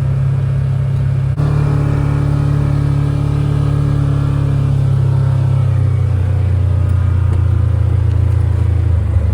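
A vehicle's engine running steadily while driving, heard loud and close. The sound changes abruptly about a second and a half in, and the engine note drops from about halfway through as the vehicle slows.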